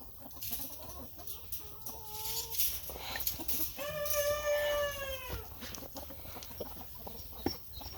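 Chickens clucking and calling, with one long drawn-out call about four seconds in that drops in pitch at its end, and a few light knocks.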